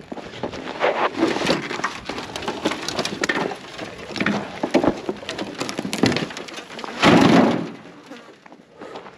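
A large sheet-metal truck hood being levered up and flipped over in dry, burnt brush: steady crackling and snapping of twigs with knocks, loudest in a burst about seven seconds in.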